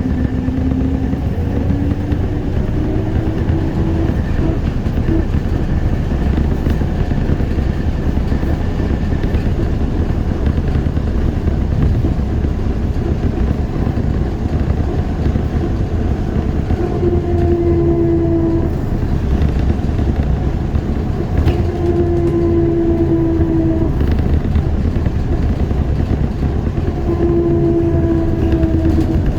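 ZiU-682G trolleybus heard on board while running: a steady rumble of wheels and running gear. The electric traction motor whines, rising in pitch over the first few seconds, and gives three shorter, slightly falling whines in the second half, with a few faint clicks.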